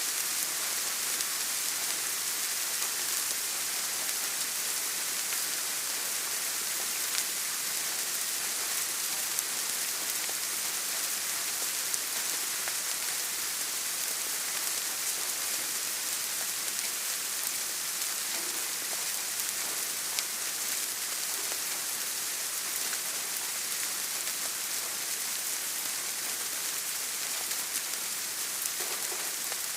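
Steady rain with an even hiss and occasional sharper drop ticks.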